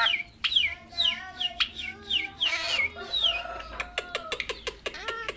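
A child mimicking a drongo's calls. First comes a series of quick falling whistles, about two a second, then from near the middle a fast run of sharp clicking chips.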